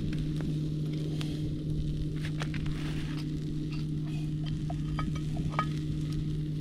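Steak cooking over a campfire, sizzling with scattered pops and crackles, under a steady low hum that cuts off just after the end.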